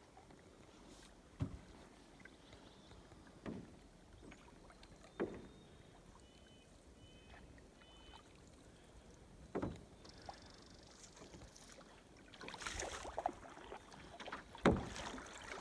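Faint canoe paddle strokes: a handful of short splashes a few seconds apart, with a busier wash of water noise near the end.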